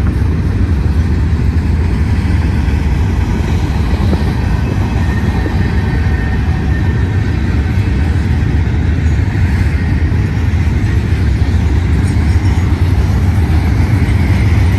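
Freight cars of a manifest train rolling past close by: a steady, loud rumble of steel wheels on the rails.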